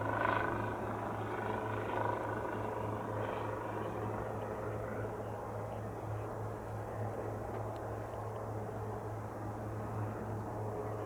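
Harmony light sport aircraft's engine at low power during landing and rollout, heard from a distance as a steady, slightly pulsing low drone that eases off a little in the first few seconds.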